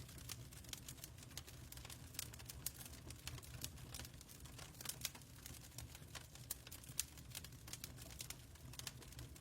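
Fireplace crackling: irregular sharp pops and snaps from burning wood over a low rumble of the fire.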